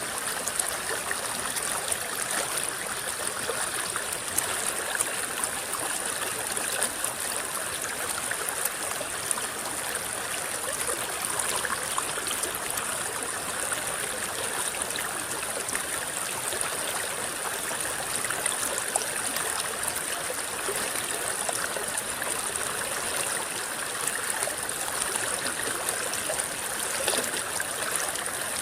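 A shallow river rippling and babbling steadily, with many small splashes and trickles. A steady high-pitched hiss sits above the water throughout.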